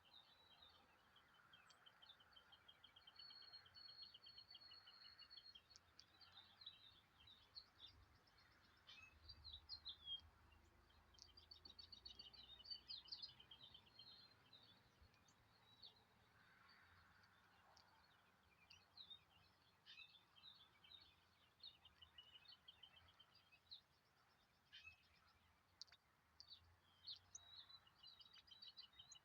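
Faint songbirds singing: many short chirps and fast trills from several birds, overlapping throughout.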